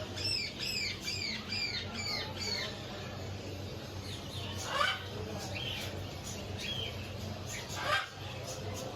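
Caged birds calling: a quick series of about eight falling chirps in the first few seconds, then two louder single squawks, one about five seconds in and one near the end.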